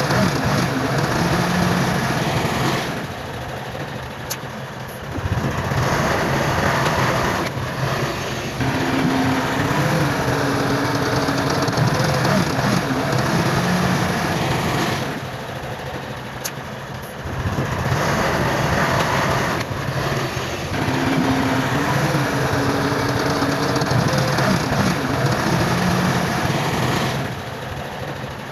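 Heavy diesel engine of earthmoving machinery working under load, its pitch rising and falling and its sound easing off briefly several times before picking up again.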